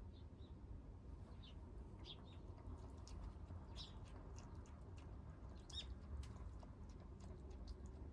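Kittens eating: faint, irregular small clicks and ticks of chewing and lapping at their food, over a low steady hum.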